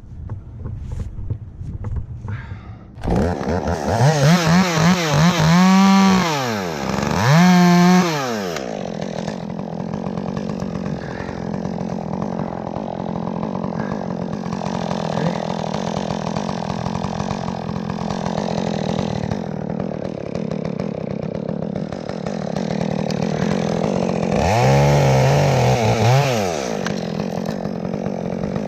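Two-stroke chainsaw starts up about three seconds in. It is revved up and down a few times, settles to a steady run, and is revved again near the end.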